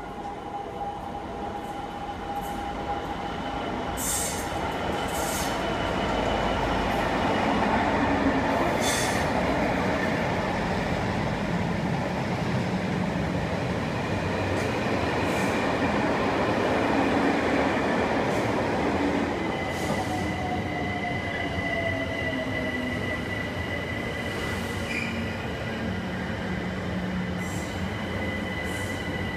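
A Class 66 diesel locomotive hauling a container freight train through the station, its wagons rumbling and clattering past, growing louder to a peak about halfway through. Later an electric multiple-unit draws in, with a falling motor whine and a steady high squeal.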